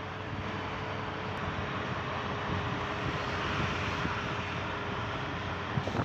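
Steady vehicle drone with a faint steady hum running through it, swelling slightly toward the middle.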